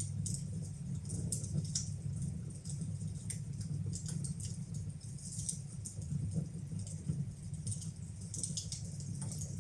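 Wood fire burning in a fireplace, with frequent irregular crackles and pops over a steady low rumble.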